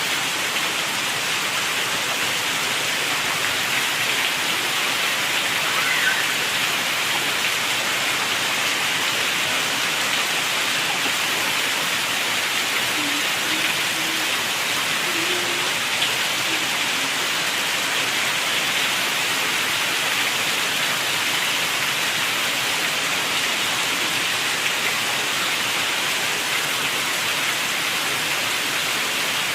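Steady heavy rain falling and drumming on surfaces, an even hiss that holds constant throughout.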